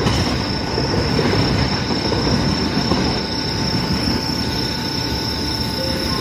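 JR West 227 series electric multiple unit approaching the station: a steady rumble of wheels on the rails, with a constant high-pitched tone over it.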